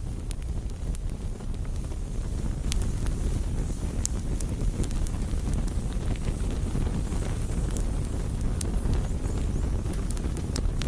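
Wood campfire burning: a steady low rumble under scattered sharp crackles and pops from the burning wood.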